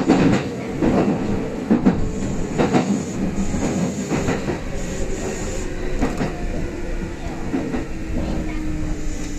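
Kintetsu express electric train rolling slowly as it brakes into a station, its wheels knocking over rail joints and points. A low motor tone under the knocks falls slowly in pitch as the train loses speed.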